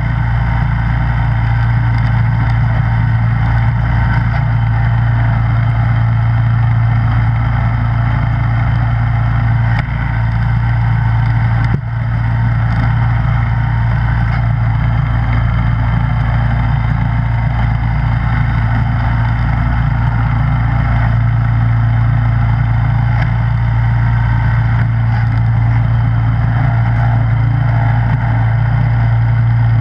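Snowblower engine running steadily at a constant speed, with brief dips in loudness about ten and twelve seconds in.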